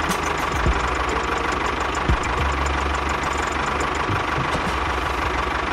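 Tractor engine running steadily at an even, unchanging pace.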